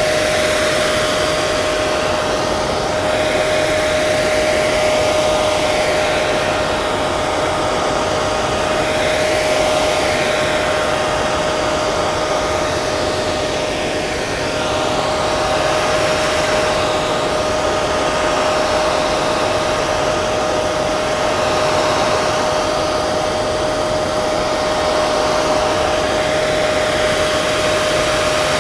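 Hair dryer running continuously: a steady rush of blown air with a constant motor hum pitched in the mid range.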